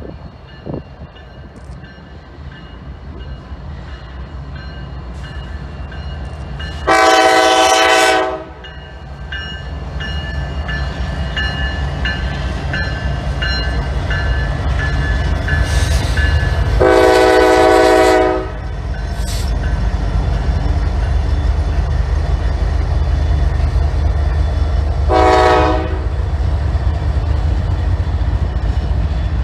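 Nathan K5LA five-chime air horn on a Canadian Pacific GE AC4400CW diesel locomotive, sounding two long blasts and then a short one as it approaches a grade crossing. Under the horn, the locomotive's rumble grows louder as it draws near.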